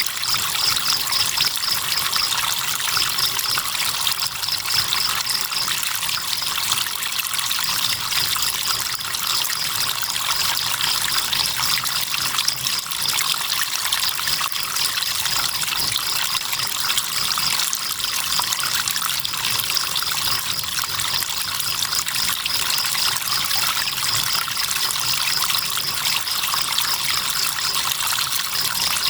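River water trickling and flowing steadily, with crickets chirping in fast pulsed trills that come and go.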